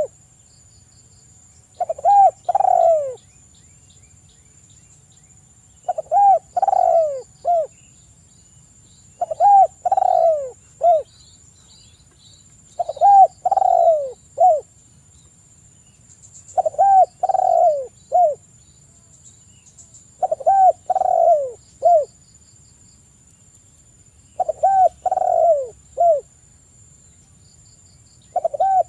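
Spotted dove (tekukur) cooing: the same phrase of several low, wavering coos ending in a short, clipped final note, repeated about every three and a half seconds, eight times. Faint high chirps sound between the phrases.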